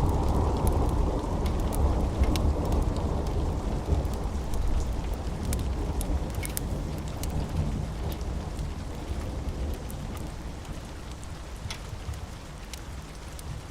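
A low rumble of thunder fading away over steady rain, with occasional sharp clicks scattered through.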